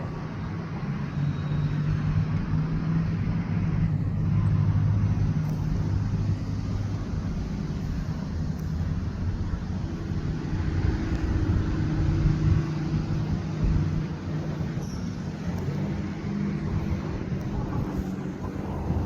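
Diesel locomotive engine running steadily with a low hum, its note shifting a few times, as the train gets under way.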